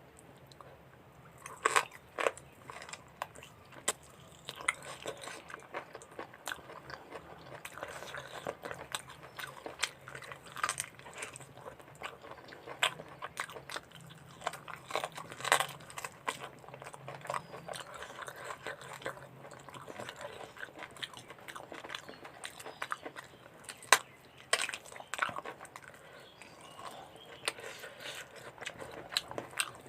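Close-miked eating of mutton curry with rice, raw onion and chilli: steady wet chewing with irregular crisp bites and mouth clicks, the sharpest about two seconds in and again near twenty-four seconds.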